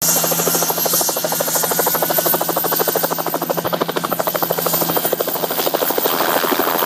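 Crop-spraying helicopter running, its rotor blades chopping in a rapid, even beat.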